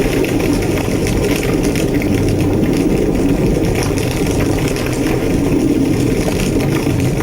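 Large structure fire burning with a steady, deep roar and scattered crackles.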